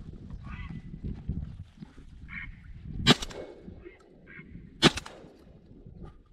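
Two shotgun shots about two seconds apart, with ducks calling in short bursts before and between them.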